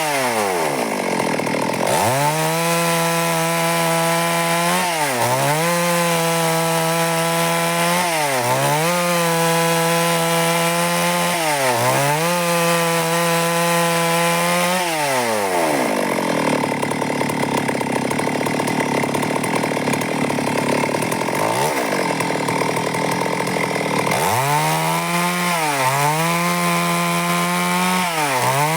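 Stihl MS382 two-stroke chainsaw cutting wood at high revs, the engine pitch dipping briefly and recovering every few seconds. About halfway through it drops to idle for several seconds, blips once, then revs back up and cuts again.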